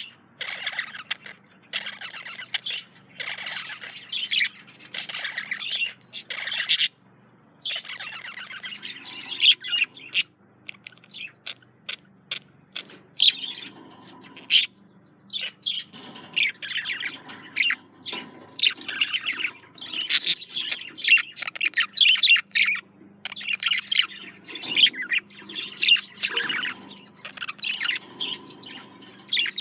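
Budgerigar warbling and chattering: a fast run of chirps, squeaks and clicks with a few short pauses, typical of a male budgie's courtship warble to a female.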